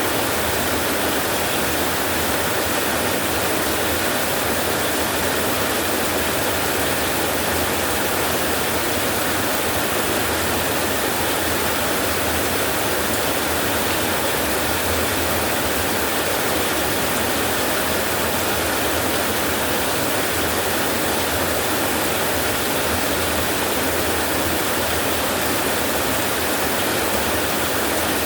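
Steady rain, an even hiss that does not change in level throughout.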